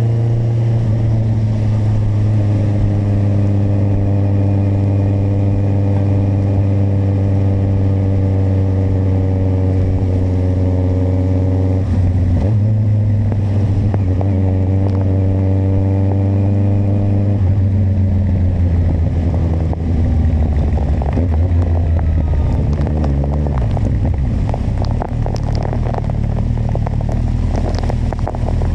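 Kawasaki motorcycle engine running under way. Its note holds steady with small rises and falls, changes abruptly about 12 seconds in and again around 17 seconds, and becomes uneven and choppy through the second half.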